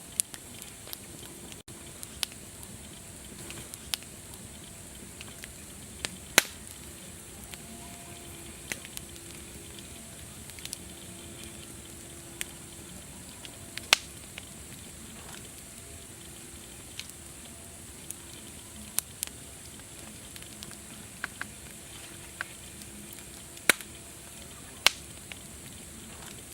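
Wood fire crackling: a steady hiss with sharp, irregular pops and snaps, a few of them much louder than the rest.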